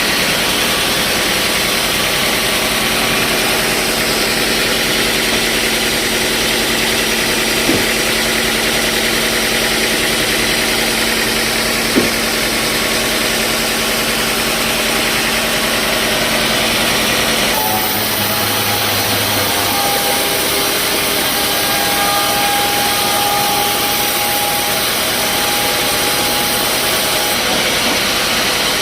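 Sawmill machinery running steadily with a loud, even mechanical noise and a steady hum. There are two short sharp knocks, about eight and twelve seconds in. The sound changes abruptly a little past halfway, with a different set of tones after that.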